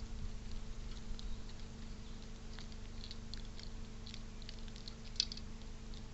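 A squirrel feeding at a bird feeder: scattered faint small clicks and taps of seed being handled and chewed, over a steady low electrical hum.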